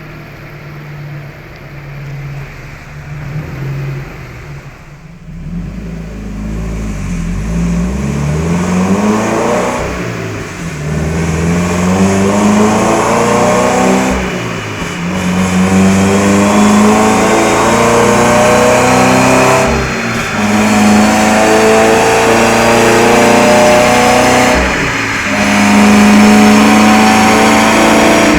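Subaru BRZ's FA20 flat-four engine with a Corsa cat-back exhaust and intake, accelerating hard through the gears. The engine note climbs and breaks off briefly at four upshifts, growing louder as it goes.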